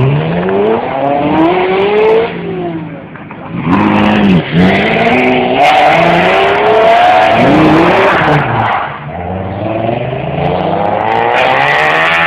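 Car engine revving hard and accelerating through the gears. Its pitch climbs steeply, drops back, and climbs again several times.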